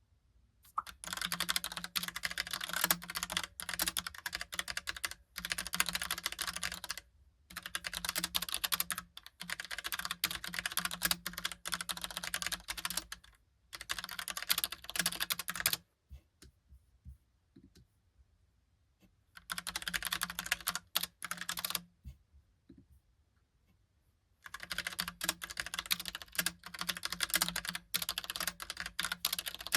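Fast typing on a Logicool (Logitech) Pop Keys typewriter-style mechanical keyboard: runs of rapid key clicks several seconds long, broken by short pauses and a longer lull of only a few scattered keystrokes past the middle.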